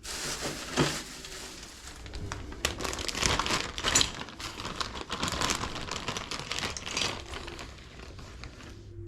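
Plastic packaging crinkling as it is handled, with a few sharp clicks and knocks among the rustling.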